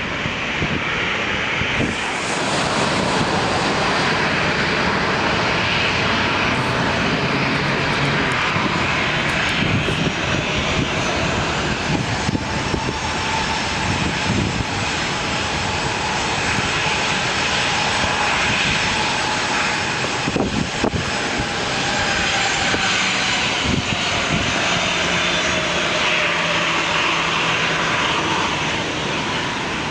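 Jet airliner's engines running loud and steady, a dense rush that swells about two seconds in, with whining tones that slowly fall in pitch through the second half as the plane passes.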